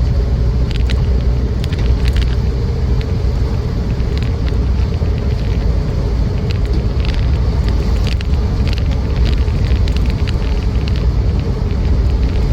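A Land Rover Defender 90's 2.4 TDCi four-cylinder diesel and its tyres, heard from inside the cabin on the move: a steady low rumble, with scattered light clicks and rattles from the bodywork and fittings over a bumpy road.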